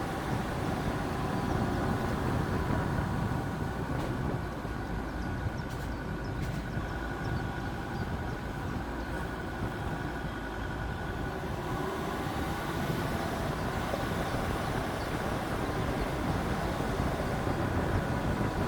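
Jeep Grand Cherokee WJ's 2.7 CRD five-cylinder turbodiesel running steadily as the vehicle drives, with a continuous rumble of engine and driving noise.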